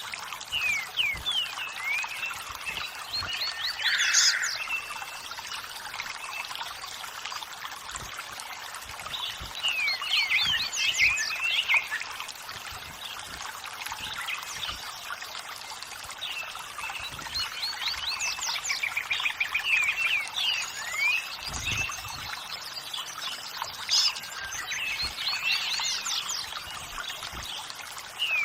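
Steady rush of running water, trickling and pouring, with wild birds singing over it in bursts of quick, sweeping chirps and trills every few seconds.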